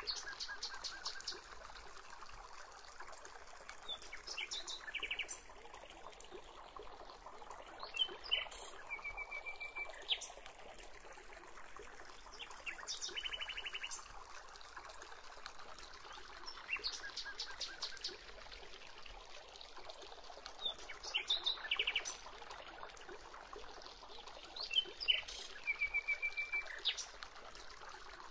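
Birds calling every few seconds in short, rapid trills and chirp series, over a steady soft background hiss.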